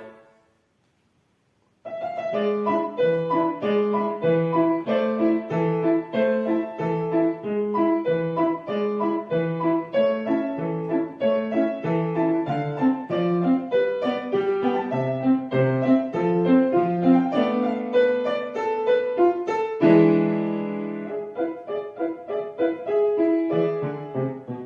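Piano playing alone, starting about two seconds in after a silence, with a strong chord about twenty seconds in.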